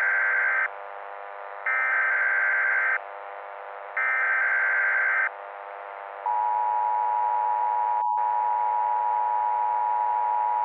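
Emergency Alert System alert opening: the tail of one SAME header data burst and then two more, each about a second long and a second apart, followed about six seconds in by the EAS two-tone attention signal, which holds steady apart from a brief dropout about two seconds after it starts. A steady low drone runs underneath.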